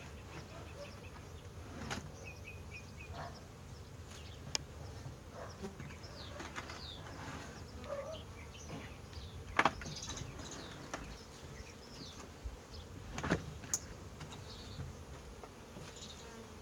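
Honeybees buzzing around an opened hive, with birds chirping. Wooden hive boxes knock and scrape now and then as they are shifted, with two louder knocks in the second half.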